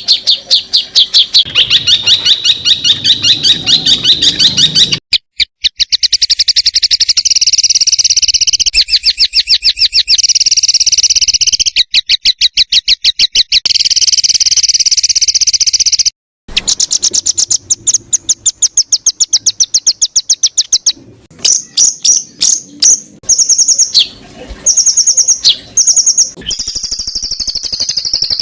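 Songbird singing rapid 'tembakan' phrases, a fast machine-gun-like run of sharp repeated high notes, of the kind used as masteran song to tutor caged songbirds. The phrases come in long loud runs that cut off abruptly, then break into shorter bursts later on.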